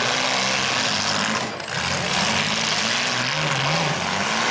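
Engines of several compact demolition derby cars running and revving, their pitch rising and falling, with a brief dip about a second and a half in.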